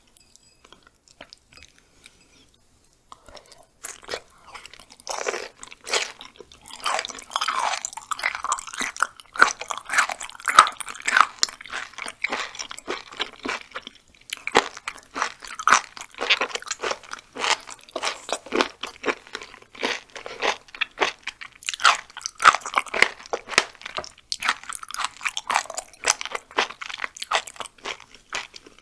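Close-up chewing of raw chicken gizzard, a crunchy, gristly mouthful. It starts about three seconds in and goes on in dense runs of crisp clicks, with a couple of short pauses.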